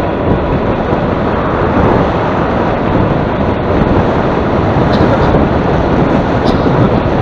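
Wind buffeting the microphone: a loud, steady, rumbling rush that carries on throughout.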